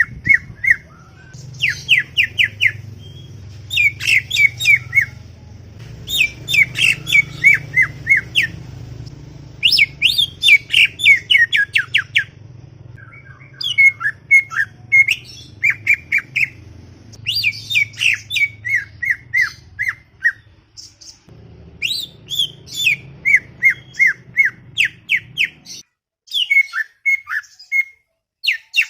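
A cucak ijo (green leafbird) singing in quick bursts of sharp, downward-sliding notes, one phrase after another with short pauses between them. A faint low hum underneath stops near the end.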